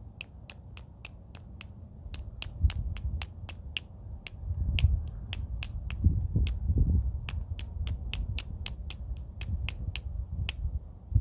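Rapid sharp clicks of a homemade bopper tapping along the edge of a flintknapping stone spall, in runs of about five or six taps a second with short pauses. A low handling rumble sits beneath.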